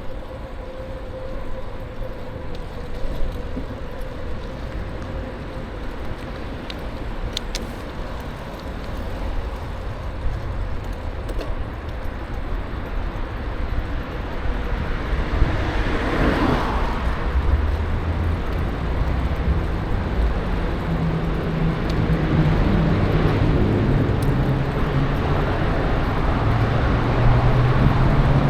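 Road traffic noise with a steady low rumble; a vehicle passes about halfway through, and an engine grows louder toward the end.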